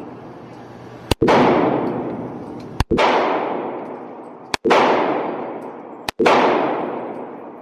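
Four pistol shots from a Glock, fired at a slow, even pace about one and a half seconds apart. Each crack rings on in a long echo off the walls of an indoor range.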